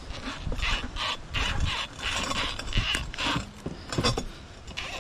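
Irregular scraping, rubbing and clinking of metal parts and tools as a new rear stabilizer link is twisted and forced onto a car's sway bar, with a few sharp knocks.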